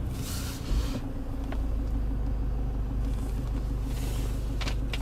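The Land Cruiser Prado's diesel engine idling, heard from inside the cabin as a steady low hum. A soft thump comes about a second in, after which the low hum is stronger.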